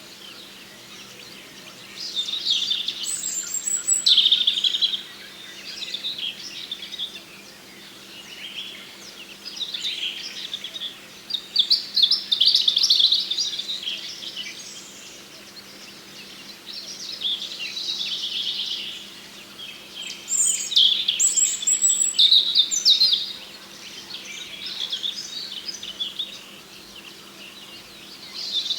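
Small songbirds chirping and singing in high phrases of one to three seconds, repeated every few seconds, over a faint steady low hum.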